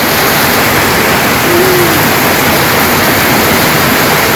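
Heavy monsoon-storm downpour: a loud, steady, dense hiss of pouring rain.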